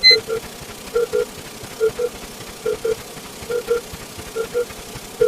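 Electronic sound effect in a counting animation: a short two-note beep repeating about once a second, a little under a second apart.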